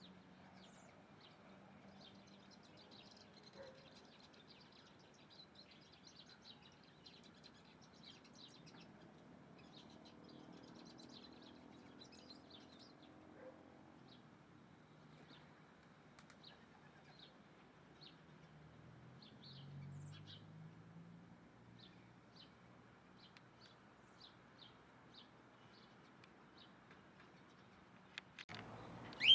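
Small birds chirping faintly over a low background hiss: a stretch of dense twittering in the first half, then short single chirps spaced a second or so apart.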